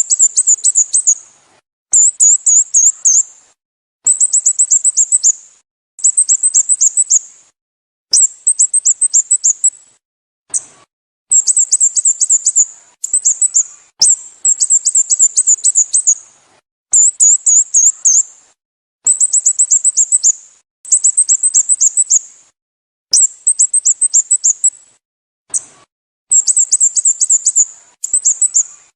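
Sooty-headed bulbul (Pycnonotus aurigaster) calling: high, quick runs of about eight sharp chirps, each run lasting about a second and repeating every two seconds or so in a steady, regular pattern.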